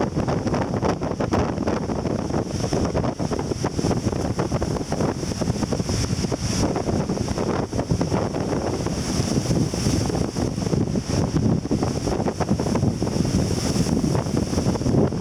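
Strong wind buffeting the microphone in an uneven, rumbling rush, over the steady wash of breaking surf.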